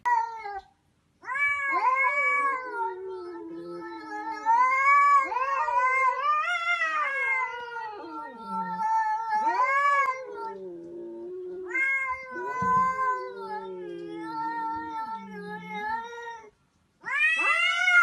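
A domestic cat caterwauling at another cat in a standoff: long, drawn-out yowls that waver up and down in pitch, almost without pause, with brief breaks about a second in and near the end.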